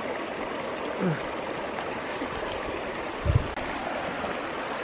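Mountain brook running over rocks in a small fast run, a steady rushing of water. A brief low thump sounds a little after three seconds in.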